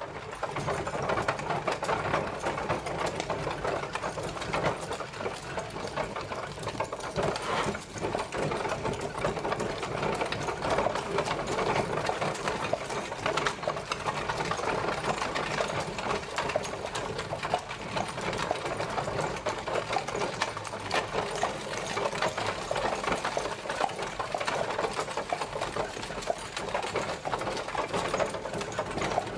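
Horse-drawn carriage on the move: a steady, dense rattling clatter of the carriage and its wheels, made of many small, quick knocks.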